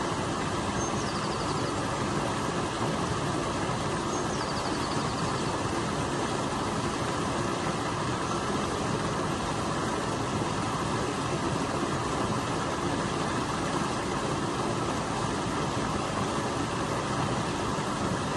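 Steady, even rush of a stream pouring over a waterfall.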